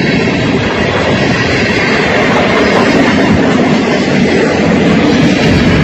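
Freight train of boxcars rolling past close by: a loud, steady noise of the cars and their wheels running on the rails.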